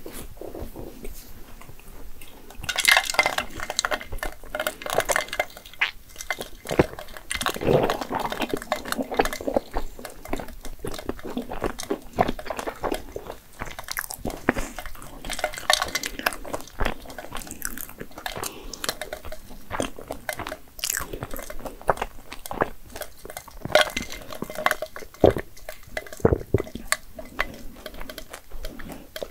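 Close-miked mouth sounds of chewing and crunching, with many irregular sharp clicks. Ice clinks against a glass as an iced drink is handled and sipped through a straw.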